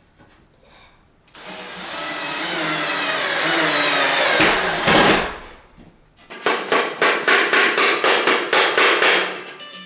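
A small electric motor runs for about four seconds and cuts off. It is followed by a fast series of sharp knocks or clatters, several a second.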